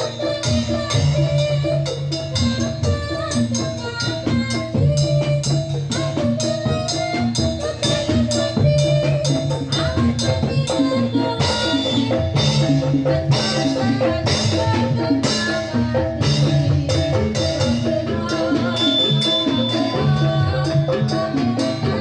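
Live Javanese gamelan music accompanying a jathilan dance: hand drums and metal mallet-struck percussion playing a steady, even rhythm over a repeating deep pulse.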